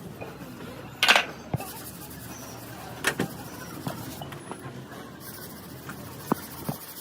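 A scattering of sharp knocks and clicks, about seven in all, over a steady background noise; the loudest comes about a second in.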